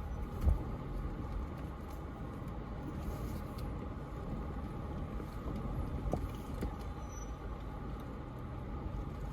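Toyota 4Runner engine running at low revs as the truck crawls slowly over rocks in four-wheel low, with one sharp thump about half a second in.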